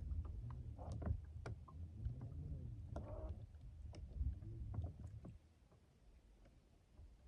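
Small fishing boat moving on the water: low creaks that rise and fall in pitch, with scattered light knocks, stopping about five seconds in.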